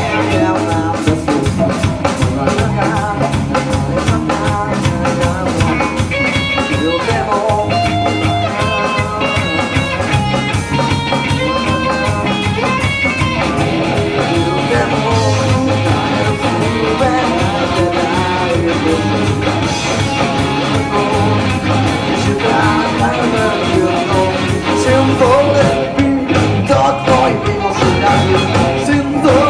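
Live rock band playing loudly: electric guitars, bass and drums with a steady beat.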